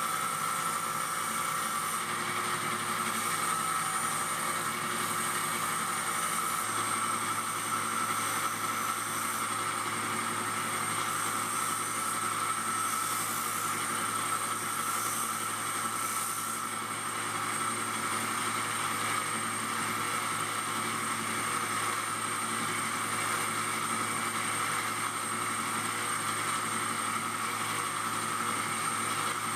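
Disc grinder running steadily with a constant whir, sanding the wooden corkscrew handle to shape.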